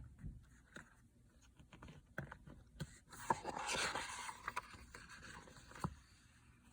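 Faint scraping and scattered small clicks of a paper picture book being handled, loudest about halfway through.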